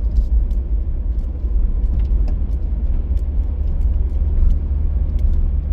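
Car driving along, a steady low rumble of engine and road noise, with a few faint ticks scattered through it.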